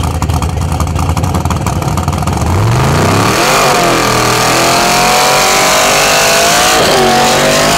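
Nitrous Fox-body notchback Mustang's small-block V8 running at low revs, then revving up sharply about two and a half seconds in. It holds high revs with the rear tyres spinning in a burnout.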